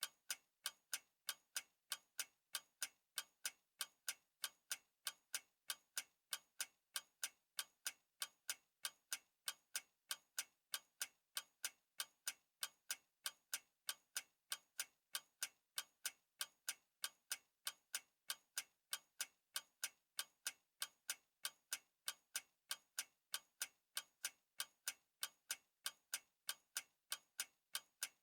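Clock ticking steadily, with sharp, evenly spaced ticks about three a second.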